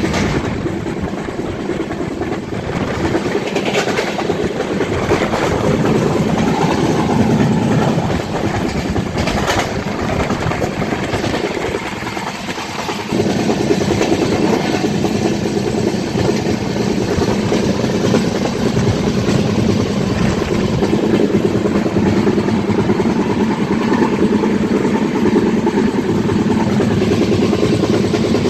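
Running noise of a train heard from inside an LHB air-conditioned coach: a steady rumble and hiss of wheels on the rails, easing briefly about twelve seconds in.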